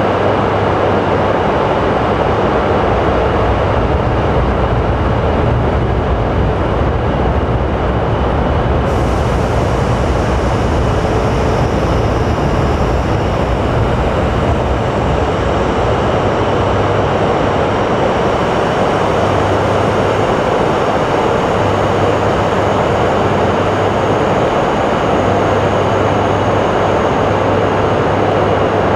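A coupled E5 and E3 series Shinkansen train set making a steady, unbroken train noise with a low hum and a faint high tone under it.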